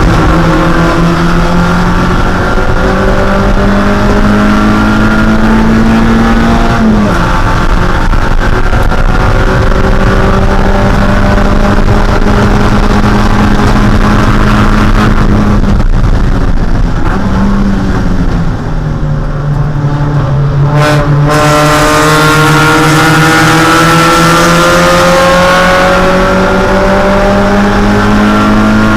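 Mazda Spec Miata's 1.6-litre four-cylinder engine running hard at racing revs. The pitch dips briefly about seven seconds in and again around sixteen seconds, falls away for a few seconds after that as the throttle comes off, then climbs steadily through the rest.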